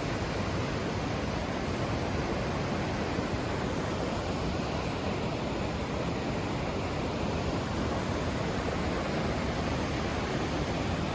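Steady rushing of falling water, an even roar with no breaks.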